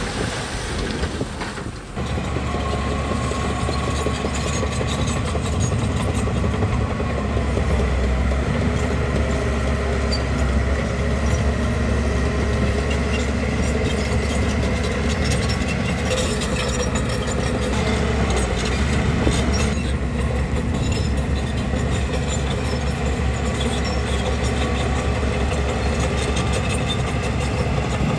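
Bulldozer's diesel engine running steadily with a deep rumble, with the clatter of its steel crawler tracks; the sound starts abruptly about two seconds in.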